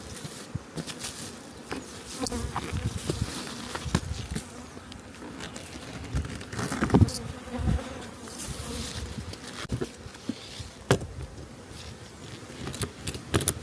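Honeybees buzzing steadily around an open hive, with repeated knocks and clicks of wooden hive boxes and supers being handled and set down, the loudest about halfway through and again near the end.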